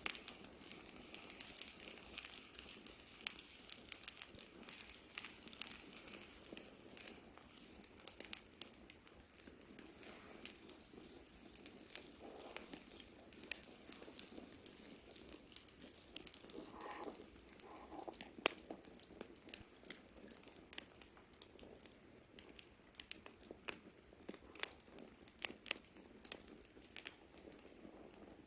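Wood campfire burning, with many sharp irregular crackles and pops over a soft hiss of the flames.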